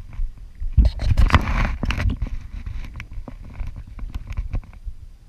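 Low rumble of wind buffeting a small action-camera microphone out on open water. Scattered knocks and a short rushing burst about a second in.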